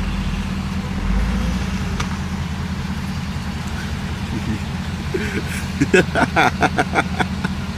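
Car engine running at a steady idle, a low even hum, with voices coming in over it in the second half.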